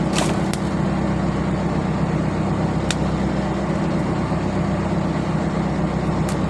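Fishing boat's engine running steadily with a low, even hum. A few short sharp clicks come near the start, about three seconds in, and near the end.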